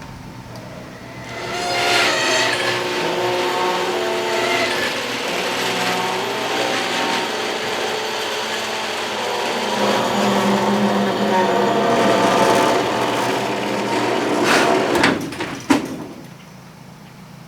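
Garage door moving along its track, with a steady mechanical running sound, rattling and creaking. It ends in a few sharp clunks as the door stops.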